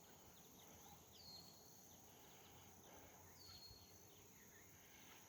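Near silence: faint outdoor ambience, with a faint short high call repeating about every two seconds.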